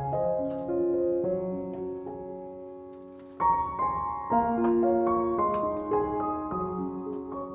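Gentle background piano music, a slow melody of single notes over soft chords, with a new phrase coming in about three and a half seconds in.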